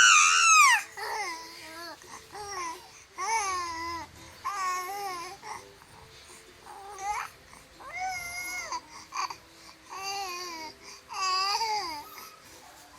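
Baby babbling and cooing: a string of short, high-pitched vocal sounds that slide up and down in pitch, the loudest a squeal right at the start and one longer held sound about eight seconds in.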